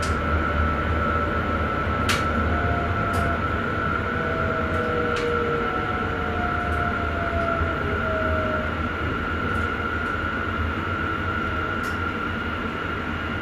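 Sprinter electric passenger train running, heard from the driver's cab: a steady low rumble with a steady high-pitched whine, a few faint sliding tones, and occasional sharp clicks.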